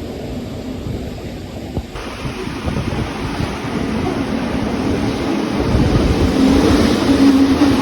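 Rhaetian Railway regional train running along the line: a steady rushing rumble that grows louder, with a hum coming up strongly near the end.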